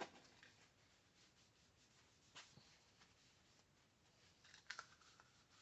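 Near silence with faint rubbing, a rag wiping a part clean with carburetor cleaner, and two light knocks, one about two and a half seconds in and one near the end.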